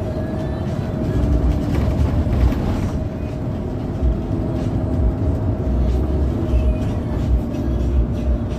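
Ride noise of a Pelita Paradep intercity bus under way: a continuous low rumble from engine and road, with irregular low thumps as it runs over the road surface and a steady hum.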